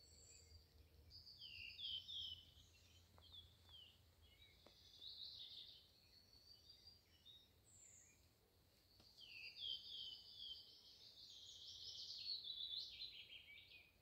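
A small bird singing in woodland: quiet, high, quick warbling phrases with runs of short falling notes, repeated several times, the longest phrase near the end.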